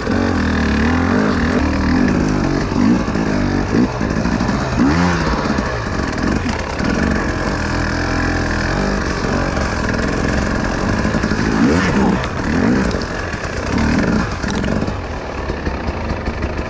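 Enduro motorcycle engine running under load, revving up and down over and over so its pitch rises and falls every second or two.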